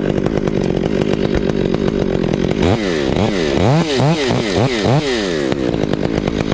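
Two-stroke chainsaw running at high speed, then from about three seconds in its engine pitch rising and falling over and over, about twice a second.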